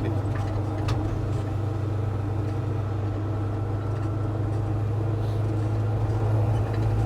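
The 383 stroker small-block V8 of a 1966 Chevy C10 pickup running steadily as the truck is driven, a low, even engine drone that grows a little louder near the end.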